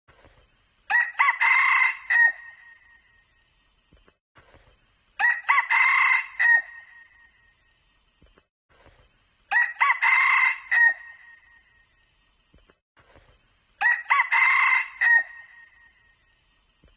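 A junglefowl rooster crowing four times at even intervals of about four seconds, each crow short and clear.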